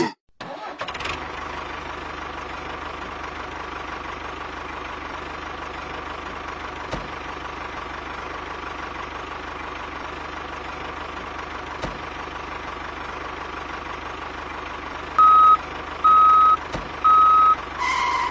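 Tractor engine running steadily with a faint whine. Near the end come three loud, even electronic beeps about a second apart, like a reversing beeper.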